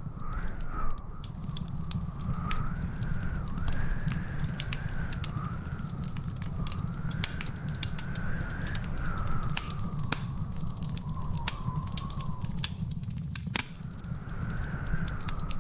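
Wood fire crackling in a fireplace, with frequent sharp pops and snaps over a steady low rumble. A faint, wavering high whistle drifts up and down in pitch behind it.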